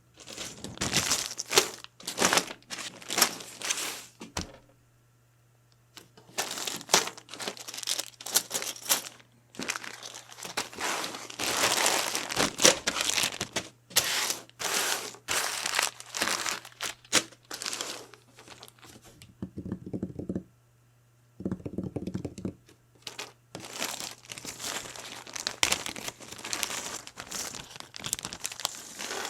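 Packaging being crinkled, rustled and torn open by hand, in irregular bursts with two short pauses.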